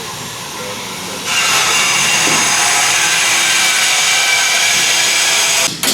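A workshop tool running with a loud, steady hiss. It starts about a second in, holds even for about four seconds, and cuts off just before the end.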